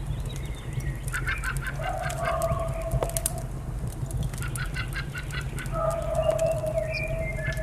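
A bird call heard twice: each is a quick run of short, higher notes followed by one long, steady lower note. Throughout, a fireplace crackles with sharp pops over a low rumble.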